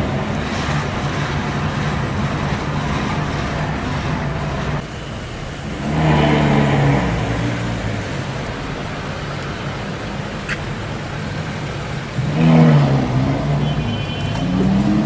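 Cars driving in traffic, engines running steadily, with a louder burst of revving about six seconds in and again about twelve seconds in.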